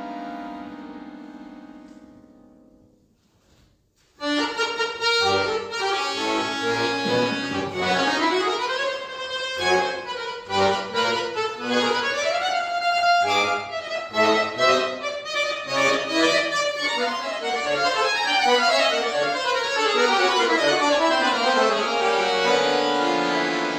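Solo accordion playing contemporary classical music: a held chord fades away, there is a short pause, then from about four seconds in a fast passage of many quick notes with long falling runs, settling onto a held chord near the end.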